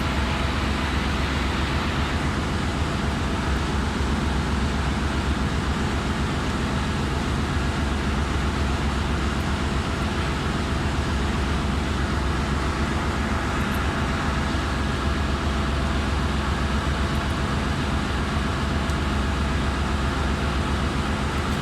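Steady drone of running machinery in a ship's engine room: a loud, constant low hum with several steady tones under an even noise.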